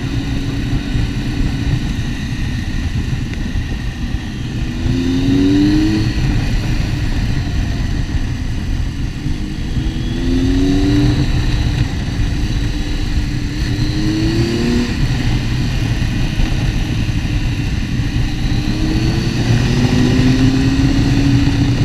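Motorcycle engine under way over a steady low rumble, rising in pitch about four times as it accelerates hard between gear changes.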